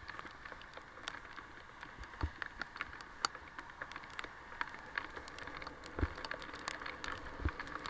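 Rain while cycling: many scattered sharp taps of raindrops hitting close to the microphone, over a steady hiss of rain and wet road, with a few low thumps.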